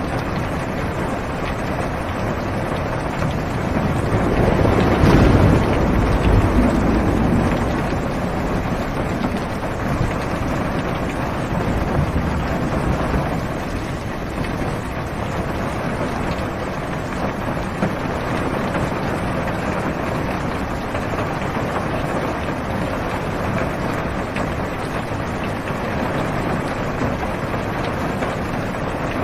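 Steady heavy rain on a car's roof and windows, heard from inside the car. A low rumble of thunder swells about four seconds in and fades a few seconds later.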